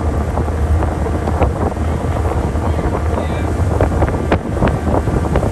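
Wind buffeting the microphone aboard a fast-moving boat, a heavy steady rumble, with the hull knocking and slapping against the water in irregular hits.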